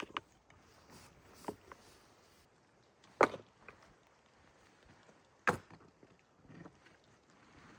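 Two sharp wooden knocks about two seconds apart, with a few lighter clicks and taps: firewood being handled while a fire is built.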